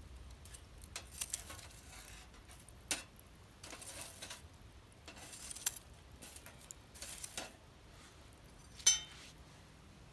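Wood fire crackling, with scattered sharp pops and a few short rustling hisses; the loudest pop comes about nine seconds in.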